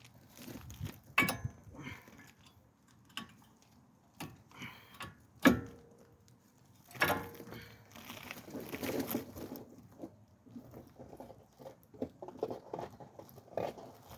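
Brake pads and their metal shims being handled: scattered metallic clicks and knocks, the sharpest about five and a half seconds in, then a run of rustling and light clatter toward the end.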